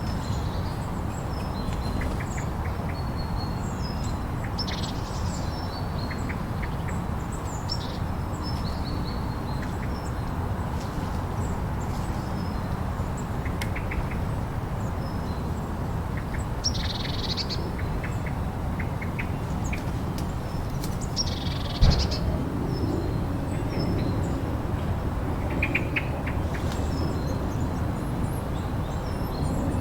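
Steady blizzard wind noise with short bird chirps scattered over it, and one sharp knock about 22 seconds in.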